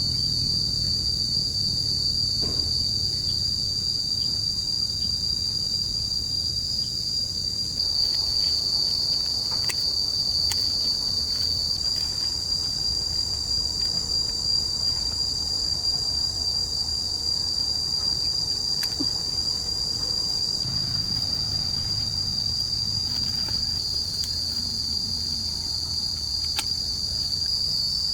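Insects chirring in a forest chorus, one unbroken high-pitched tone held throughout, over a low rumbling background with a few faint clicks.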